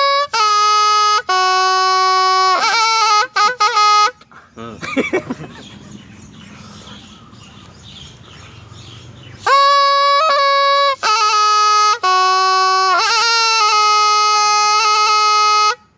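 Thai pi, a reed pipe, playing a melody of long held notes with quick ornamental turns between them. It plays two phrases, breaking off for about five seconds in the middle.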